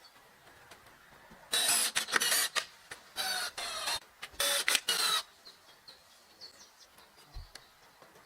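Three rasping, scraping strokes, each under a second long, starting about a second and a half in, with faint bird chirps in the quieter stretches.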